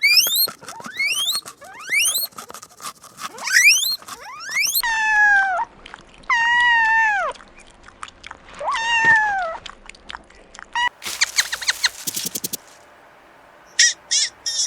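A sequence of farm animal calls: a run of short, quick rising chirps, then three long calls that slide down in pitch, then a rapid rattling burst. Near the end come short, buzzy calls like quacking.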